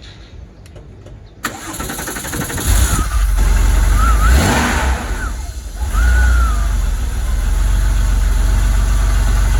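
Porsche 964 Carrera 4's air-cooled 3.6-litre flat-six being cranked and starting: the starter turns it over, it catches a little under three seconds in, revs briefly, then settles into steady running.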